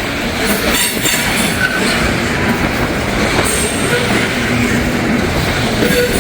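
Freight train cars rolling past close by, a steady heavy rumble and clatter of wheels on rail with short wheel squeals now and then, under strong wind buffeting the microphone.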